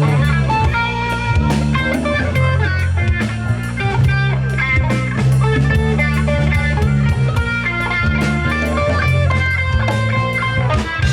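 Live funk-rock band playing an instrumental passage: electric guitar lines over bass and drum kit.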